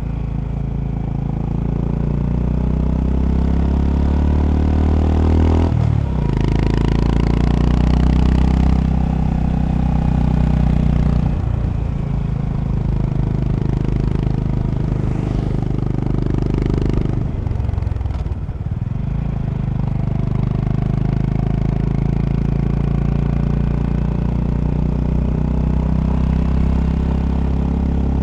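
Honda GB350's air-cooled single-cylinder engine under way. The revs climb for about six seconds, fall sharply at a gear change, dip twice more around the middle, then hold steady, with a rush of wind noise during the faster stretch.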